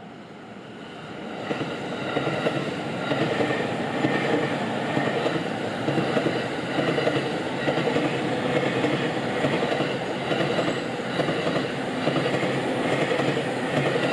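Train passing over a level crossing, its wheels clacking rhythmically over the rail joints. The sound builds up over the first couple of seconds, holds steady, and begins to fade near the end.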